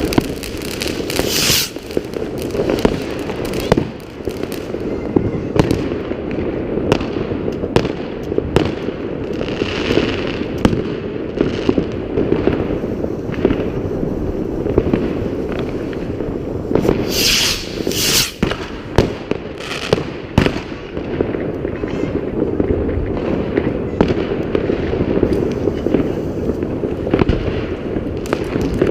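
New Year's Eve fireworks and firecrackers going off all around in a continuous barrage of bangs and crackles over a steady low rumble, with a few brighter, sharper bursts near the start and a little past halfway.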